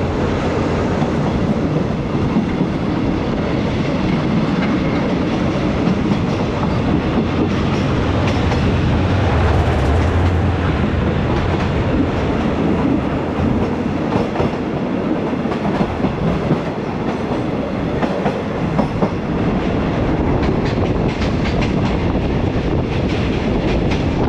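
Passenger train running along the track, heard from aboard: a steady rolling rumble of the carriage with the wheels clicking on the rails.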